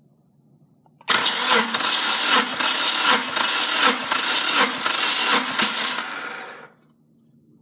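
Subaru FA20DIT 2.0 L turbo flat-four, out of the car, turned over by its starter motor. It starts abruptly about a second in, runs with a regular pulse a little over once a second, and winds down and stops near the end.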